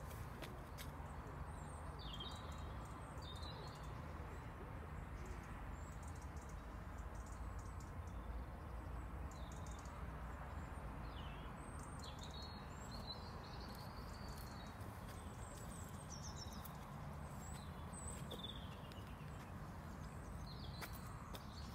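Small songbirds chirping and trilling, short calls scattered throughout, over a steady low outdoor rumble.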